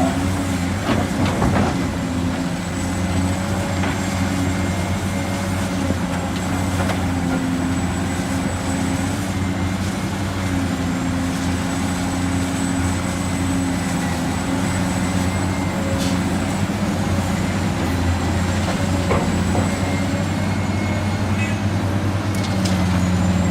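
Radio-controlled model Hino 500 dump truck running: a steady engine-like truck hum with a thin high whine over it.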